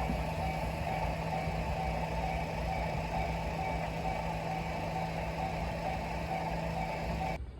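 A train's engine running steadily, a constant low hum with a faint repeating tone about three times a second. It cuts off suddenly near the end.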